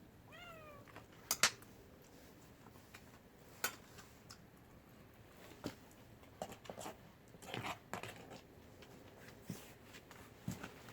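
A domestic cat meows once, a short call that rises and falls, just after the start. Scattered sharp clicks and knocks follow, the loudest about a second and a half in.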